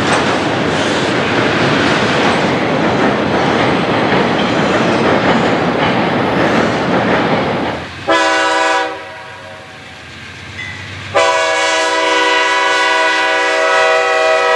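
CSX freight cars rolling past at close range, wheels clicking over the rail joints. About eight seconds in, after a cut, a Grand Trunk Western diesel locomotive sounds its horn at a grade crossing: a short blast, then a long one held to the end.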